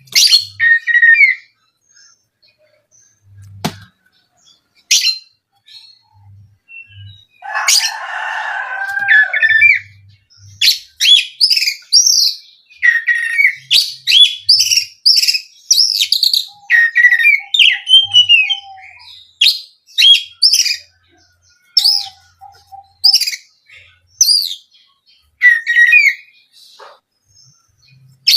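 Oriental magpie-robin (kacer) singing: a run of sharp, high whistled notes and chirps in quick phrases with short pauses, a harsher rasping phrase about eight seconds in, and a few brief low rapid trills.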